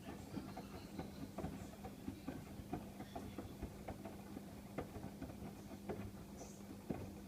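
Miele WKF120 washing machine running its cottons 90 wash: a steady low motor hum with irregular soft knocks and patter from the tumbling drum.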